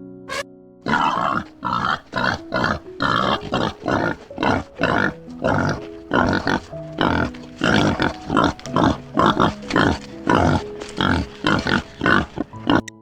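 An animal giving short calls in quick succession, about two a second, over soft background music.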